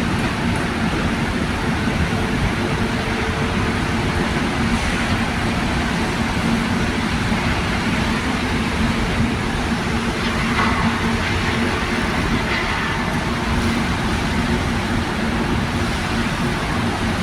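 Steady mechanical running noise with a constant low hum and no breaks.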